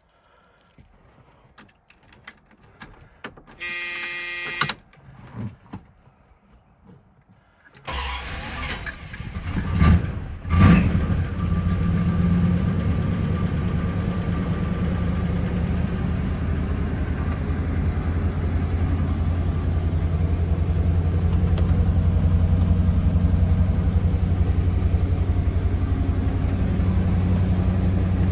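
1979 Chrysler 300's E58 360 cubic-inch four-barrel V8 cold-started: after a few faint clicks and a brief warning buzzer, the engine cranks and catches about eight seconds in and revs up sharply twice. It then settles into a steady idle.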